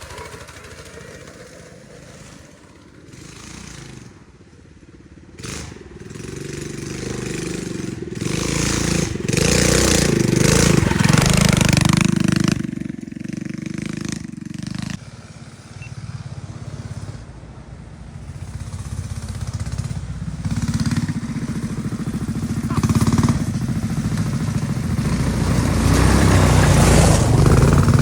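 Small minibike engines revving hard under load, swelling and fading as bikes work past; loudest around ten seconds in and again near the end.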